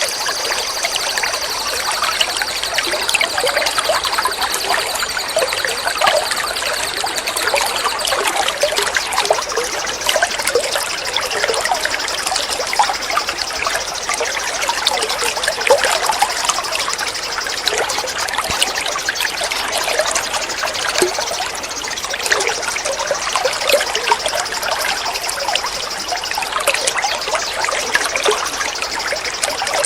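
Shallow running water babbling and trickling steadily. Over it a continuous high, thin trill holds a single pitch, breaking off briefly twice.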